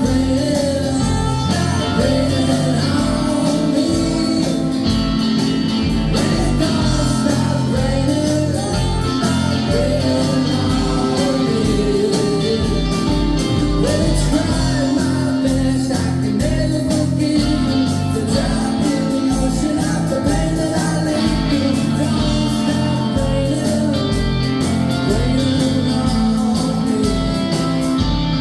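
A rock band playing live in a club: a singer over electric guitars, bass and a steady drum beat.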